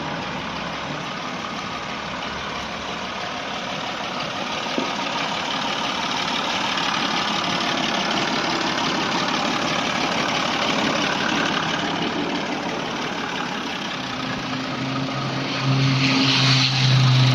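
Massey Ferguson 240 tractor's diesel engine running, growing louder towards the end, where a steady low hum comes in.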